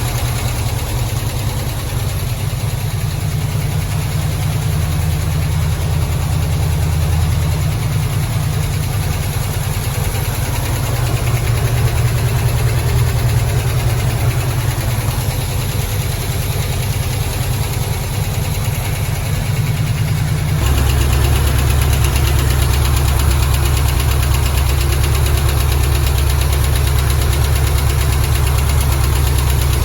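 Small-block Chevy 350 V8 idling steadily. About 21 seconds in, the sound abruptly turns a little louder and deeper.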